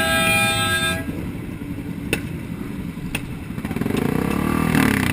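A vehicle horn sounds steadily and cuts off about a second in. Traffic noise follows with two sharp clicks, then near the end an engine revs up and back down.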